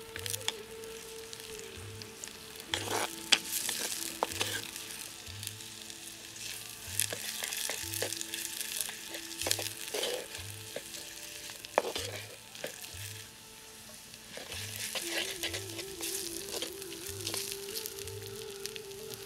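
Sliced shallots, green chillies, garlic and pandan leaves sizzling as they fry in a clay pot, stirred with a wooden spoon. Sharp clicks of the spoon against the pot now and then, the loudest about 3 and 12 seconds in.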